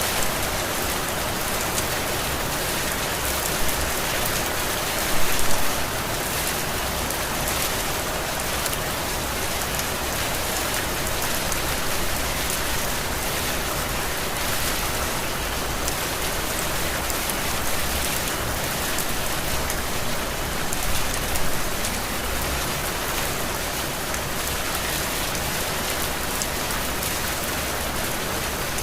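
Heavy, steady rain falling on surfaces, an even hiss with brief louder spells about five seconds in and again around twenty seconds in.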